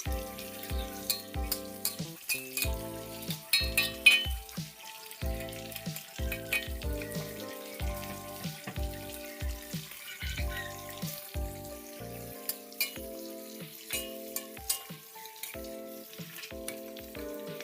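Food sizzling as it fries in a pan, stirred with a utensil that gives irregular sharp clicks and scrapes against the pan.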